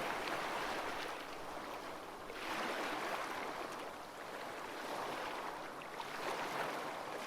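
Recorded ocean waves washing in a steady hiss, swelling twice as waves come in.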